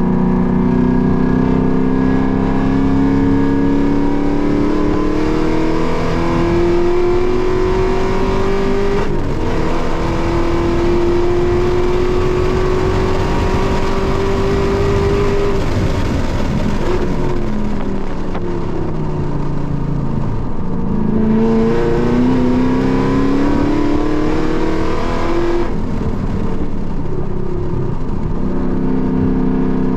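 Car engine at full throttle on a race track, heard from inside the cabin. The pitch climbs, breaks with an upshift about nine seconds in and climbs again. Just past halfway it falls away as the car slows and downshifts, then climbs once more before settling at a steadier pitch near the end.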